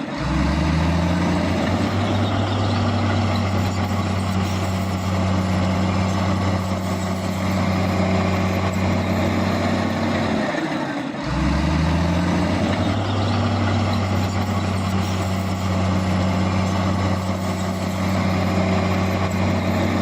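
Heavy diesel engine of earthmoving machinery running steadily under load, its pitch rising over the first second. It breaks off briefly about eleven seconds in, then comes back with the same rise and runs steadily again.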